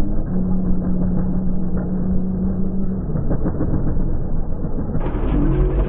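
Motocross bike engines running, one holding a steady pitch for about three seconds before it fades into the general engine noise.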